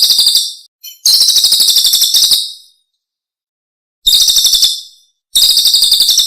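A songbird singing rapid, high-pitched trilling phrases in four bursts, with silent gaps between them. This is a masteran recording, birdsong played to teach caged songbirds.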